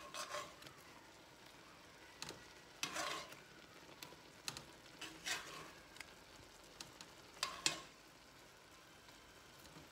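Chicken fajita strips with peppers and onions sizzling faintly in a hot skillet while metal tongs stir and lift them, the tongs knocking and scraping against the pan several times.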